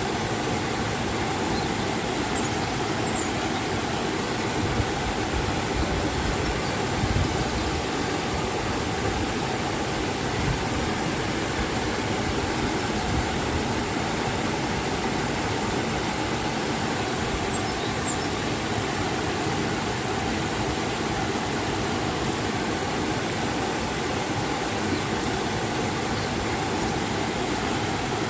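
Rushing water of a river and waterfall, a steady, even roar of flowing and falling water.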